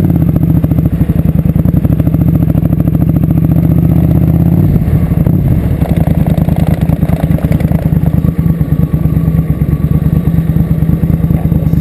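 Suzuki Intruder 700's V-twin engine running loud at low road speed, with dense, even firing pulses. Its note changes about five seconds in as the bike slows.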